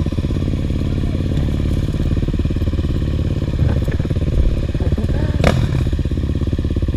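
Dirt bike's single-cylinder four-stroke engine running steadily at low revs, with a sharp knock about five and a half seconds in.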